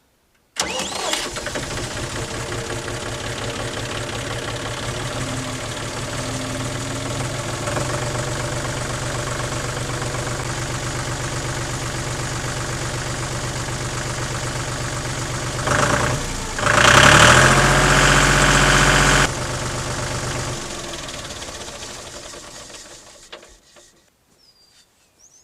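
John Deere 5103 tractor's three-cylinder diesel engine starting about half a second in and idling steadily. It runs louder for about two and a half seconds around seventeen seconds in, then stops about twenty seconds in, the sound dying away over the next few seconds.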